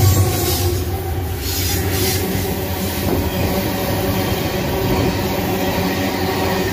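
A GE AC44i diesel-electric locomotive passing close by, its low engine rumble fading within the first two seconds, then empty iron-ore gondola wagons rolling past with a steady rumble of steel wheels on the rails.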